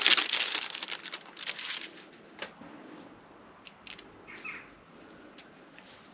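Crinkling and rustling of packaging handled by hand as a new gasket is unwrapped. It is dense for the first two seconds, then thins to a few scattered clicks and rustles.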